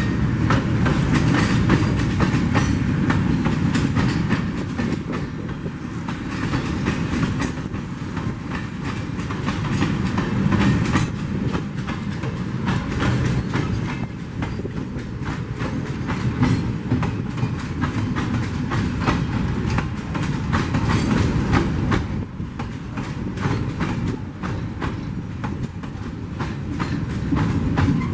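Loaded freight train of mineral hopper cars rolling past, a steady rumble with dense, continuous clatter of steel wheels over the rails.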